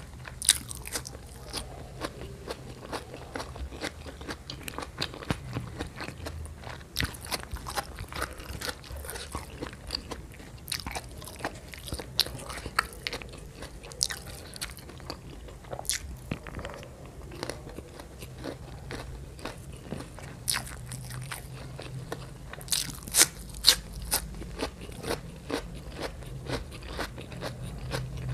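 Close-miked eating: a person biting and chewing food, with many sharp crunches and clicks and a quick run of loud crunches about four fifths of the way in.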